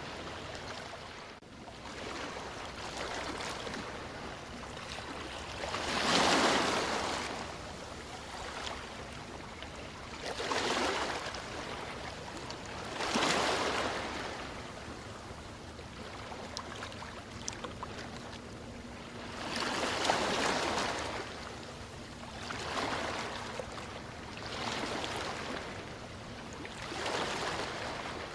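Ocean waves washing in, a steady hiss that swells every few seconds as each wave breaks.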